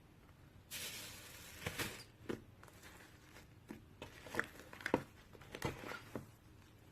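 Rustling and crinkling handling noise: a hissy rush just under a second in, then a run of small clicks and crackles.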